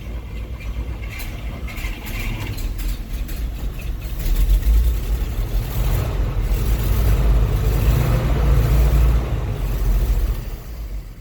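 A GMC 305 V6 petrol engine cranking over on gas poured down the carburetor, its mechanical fuel pump not yet primed. It gets louder about four seconds in and dies away near the end.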